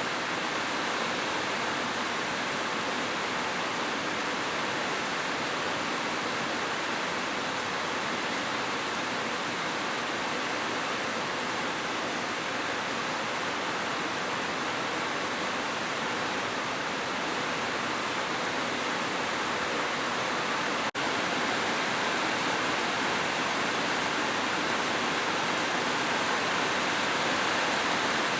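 Heavy rain falling in a steady, even hiss, with a momentary dropout about three-quarters of the way through.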